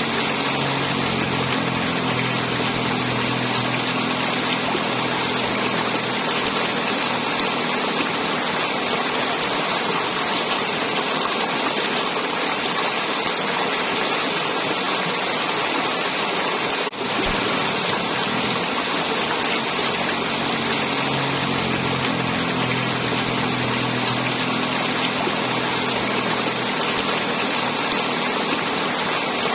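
River water flowing and gurgling in a steady rush. A low motor hum sits under it for roughly the first ten seconds and comes back later on, and the sound drops out for an instant a little past halfway.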